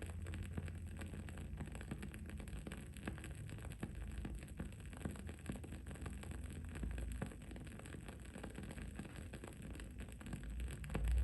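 Wood wick of a burning candle crackling, with many small irregular pops over a steady low background rumble.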